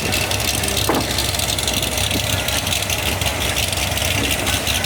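Car engine idling steadily, a low even rumble under a constant hiss of background noise.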